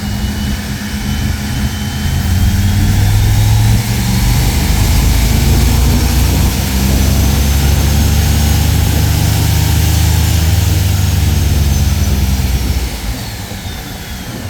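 Stock Ford 302 V8 on a chassis-dyno pull: the engine swells to a loud, sustained run about two seconds in and holds. A thin whine climbs steadily in pitch over about eight seconds, then falls away as the engine drops off near the end.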